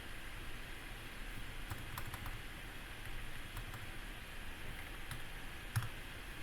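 A few scattered clicks of a computer keyboard and mouse in use, over a steady faint hiss, with the loudest click near the end.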